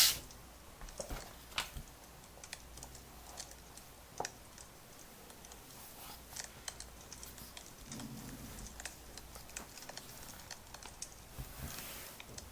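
Crackling wood fire: irregular sharp pops and clicks over a low steady hiss.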